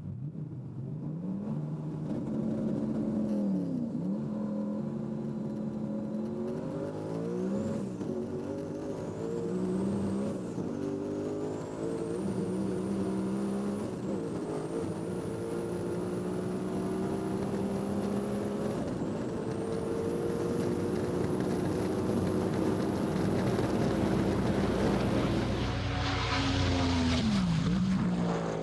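Ford GT's engine under full throttle, heard from inside the cockpit: its note climbs in pitch through each gear and drops sharply at each of about five upshifts, with a thin high whine rising alongside. Near the end loud wind rush takes over as the engine note falls away with the throttle lifted.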